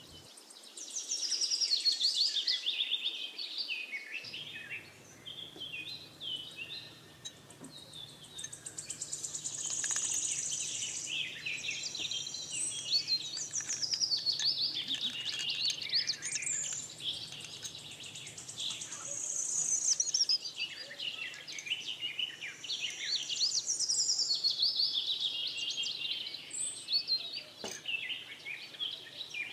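A chorus of many small songbirds chirping and twittering without a break, quick high notes and short glides overlapping one another.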